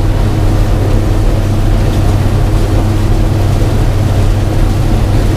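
Old gasoline-engined combine harvesting corn: a steady engine drone mixed with the running of the four-row corn head.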